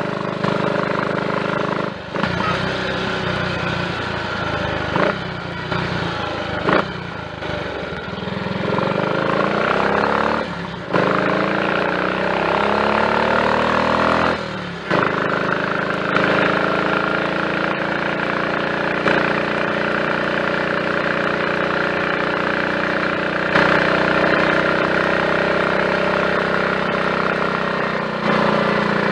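Triumph Tiger Cub's single-cylinder four-stroke engine running under way on the road, its note rising in pitch as it picks up speed and dipping briefly a few times, as at a gear change. It runs without misfiring, its rich mixture corrected by a new carburettor slide, needle and jets.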